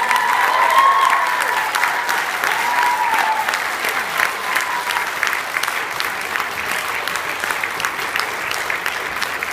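Audience applauding after a song, a steady clatter of many hands clapping, with a few voices calling out over it in the first three or four seconds.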